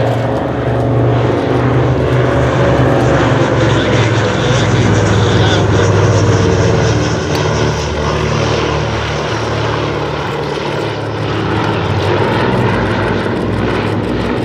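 Piston engines of a vintage propeller aircraft flying past, a steady drone that swells and eases as it goes by.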